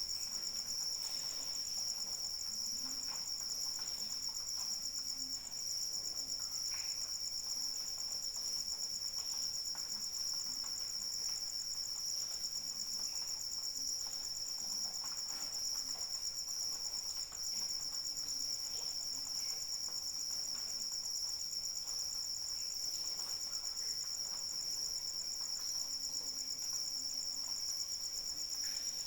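Crickets trilling in a steady, unbroken high-pitched chorus, with faint scattered drops of light rain beneath.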